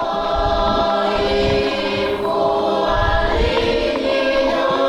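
Background music: sustained, layered choir-like voices holding chords that shift slowly.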